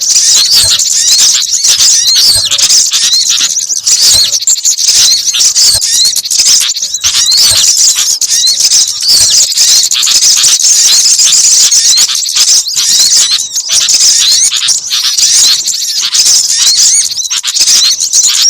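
A dense, unbroken chorus of high-pitched chirps and twittering from small songbirds, many rapid calls overlapping, played as a bird-luring (pikat) track.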